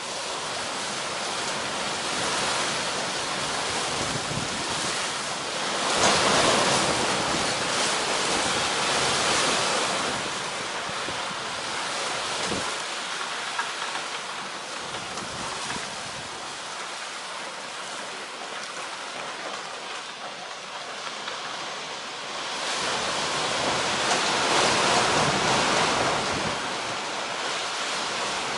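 Typhoon wind gusting at about 25 metres per second: a steady rush that swells into louder gusts about six seconds in and again near the end.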